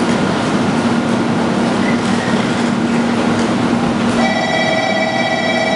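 Station-platform noise beside a standing Shinkansen bullet train: a steady rushing noise with a low hum. About four seconds in, a steady ringing of several high tones starts and keeps going.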